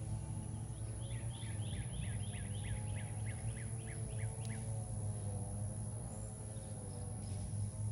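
A songbird sings a run of about a dozen quick down-slurred notes, about four a second, over a steady low machine hum.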